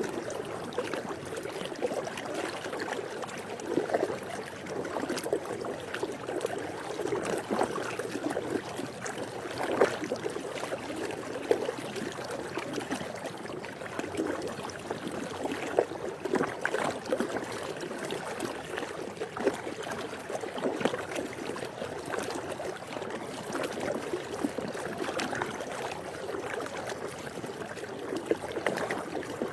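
Swimming pool water lapping and trickling steadily, with many small irregular splashes.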